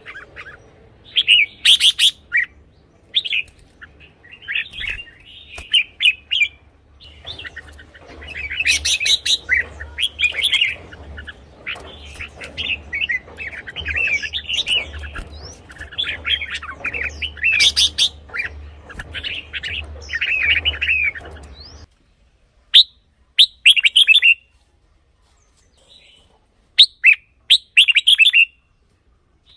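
Red-whiskered bulbul singing: repeated short, bright chirping phrases with brief pauses between them. A low background hum runs under the song and drops out about two-thirds of the way through, leaving the later phrases separated by silence.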